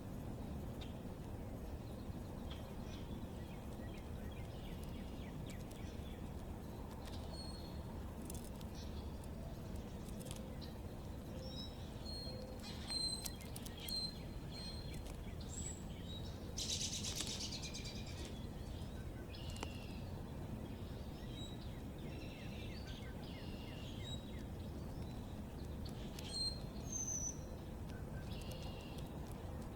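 Backyard songbirds chirping in short, scattered high calls, with a louder burst of chatter about seventeen seconds in, over a steady low background noise.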